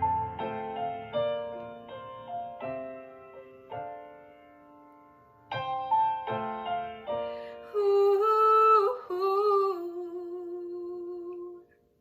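Closing piano chords of a slow song fading note by note, then fresh chords under a woman's wordless held note with a slight waver, which ends sharply near the end.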